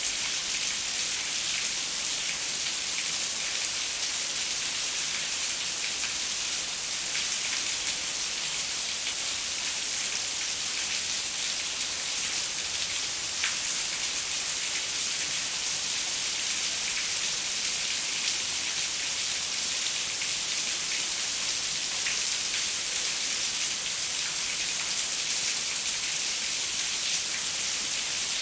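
Steady rain pattering on a window, a dense even hiss with occasional individual drop ticks.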